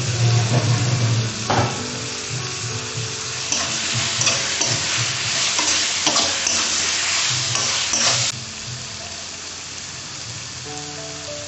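Chopped tomatoes and onions sizzling in hot oil in an aluminium kadai, stirred and scraped with a metal spatula. The stirring is loudest for the first eight seconds or so, then drops to a quieter, steady sizzle.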